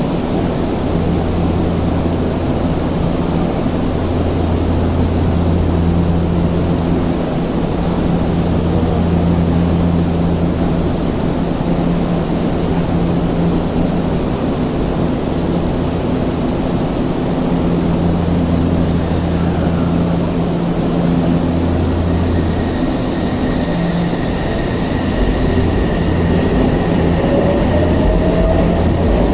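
Odakyu electric commuter train standing at the platform with a steady low electrical hum from its equipment. Near the end it starts to pull away, its motors whining upward in pitch, while a high steady tone sounds.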